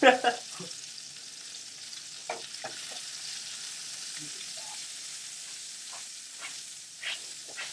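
Chicken breasts sizzling steadily in bacon grease in a skillet, with a few short clicks scattered through.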